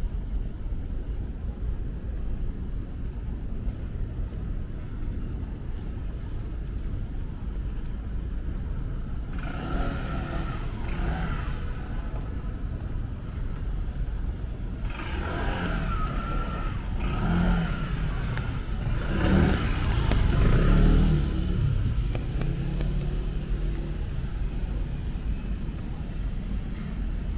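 City street traffic: a steady low hum of vehicles on a wet road, with cars passing closer about a third of the way in and again over several seconds past the middle, their tyre noise loudest a little after the middle.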